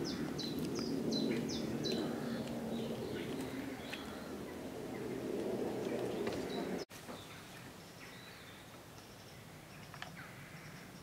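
Small songbirds chirping: a run of short, high, falling chirps, about two a second, over a low background rumble. Both drop away abruptly about seven seconds in, leaving fainter scattered chirps.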